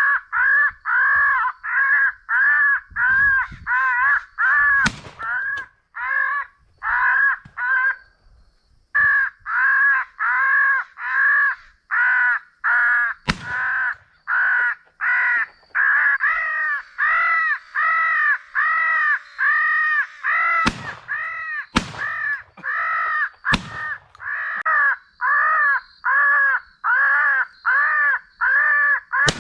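Crow caws played from an electronic crow caller, repeated in a steady, even rhythm of about two a second with a brief break about a quarter of the way in. Several sharp cracks cut across the calling, three of them close together about two-thirds of the way through.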